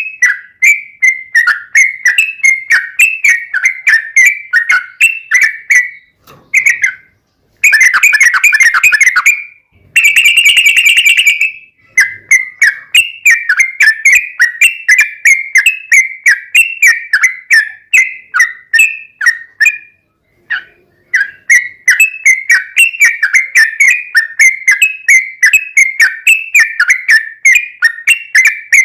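Yellow-vented bulbul song: loud, fast chattering whistled notes repeated about three a second. A third of the way in there are two dense rattling trills, and there is a brief pause about two thirds of the way through.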